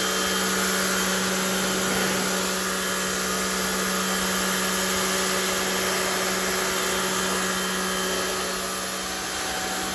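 Rock&Rocker HWY12 electric pressure washer running steadily, its motor and pump giving a constant hum under the hiss of the water spray.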